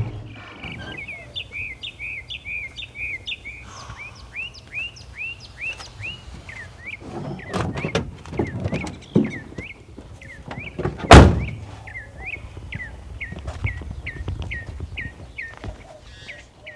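A bird chirping over and over, short hooked notes about three a second. Several dull thumps come in the middle, and about eleven seconds in there is one loud sharp thump, the loudest sound.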